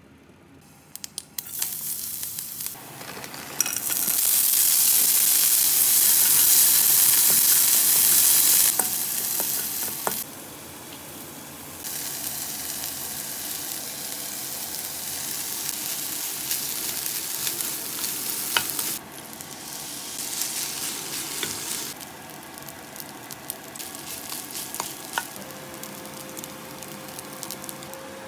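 Rice and mixed vegetables stir-frying in a hot non-stick pan: oil sizzling loudly, fading and returning in several stretches, with a spatula scraping and now and then tapping against the pan.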